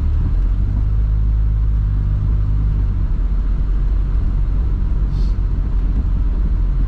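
Car engine running at low speed, heard from inside the cabin as a steady low drone whose pitch shifts slightly a couple of times.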